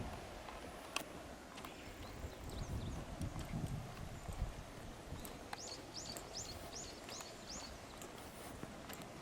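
Footsteps on a dirt and gravel path, irregular clicks and scuffs. About halfway through, a bird calls a quick series of six short high notes.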